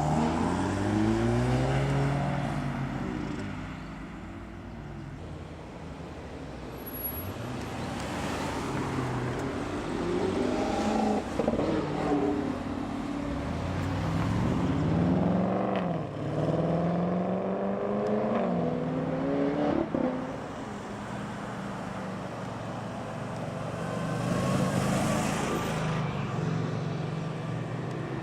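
Audi cars driving off one after another, their engines revving up in several rising pulls as they accelerate away.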